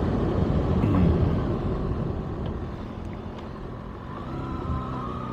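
Riding on a Kawasaki ZX-6R: wind rush and the inline-four engine heard from the bike's mounted camera. The sound eases off through the middle, then a steady engine tone comes up about four seconds in.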